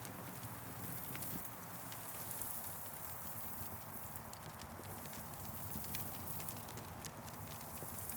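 Campfire burning, with irregular sharp crackles and pops of the burning wood, several a second, over a steady soft hiss.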